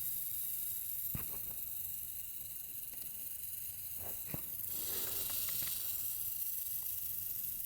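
Rattlesnake, which the filmer takes for a western diamondback from its big rattle, rattling continuously as a steady high buzz: a defensive warning.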